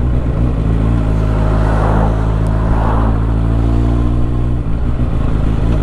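Suzuki GSX650F's inline-four engine running at a steady pace, its note dipping briefly about four and a half seconds in. A brief rush of noise comes through between about one and a half and three seconds in.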